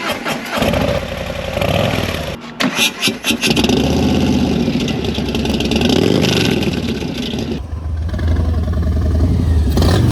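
Harley-Davidson V-twin motorcycle engine starting and running with some revving, in a few edited cuts: a burst of sharp pops or clicks about three seconds in, and a steadier, deeper running sound over the last couple of seconds.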